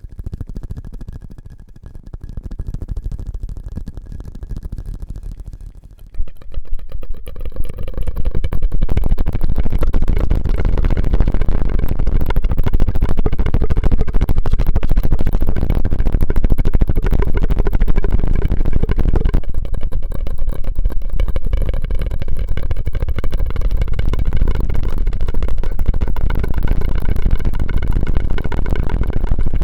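Close-miked ASMR mouth sounds: dense rapid clicking and crackling. It is softer and patchy at first, then loud and continuous from about six seconds in.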